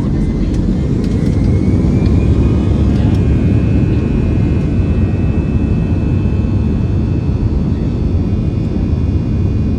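Airbus A321 jet engines heard from the cabin at takeoff, a heavy steady rumble. About a second in, the engines' whine rises as they spool up, then holds steady at takeoff thrust.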